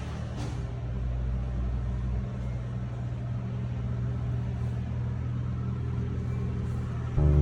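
Steady low drone of a car engine running. Music starts in just before the end.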